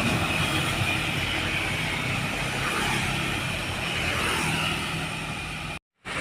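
A truck's diesel engine running with road noise, steady throughout, then cut off for a moment near the end.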